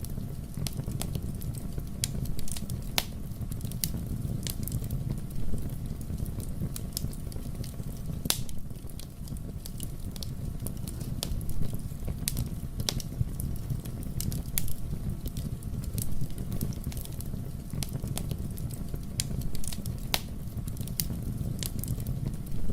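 Fire burning in a fireplace: a steady low rumble of flames with sharp, irregular crackles and pops of burning wood.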